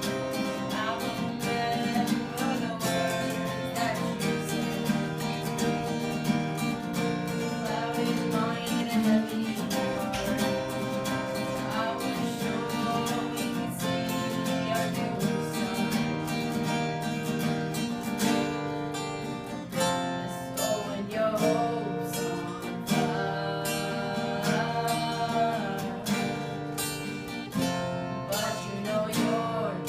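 Acoustic guitar strummed steadily with singing over it.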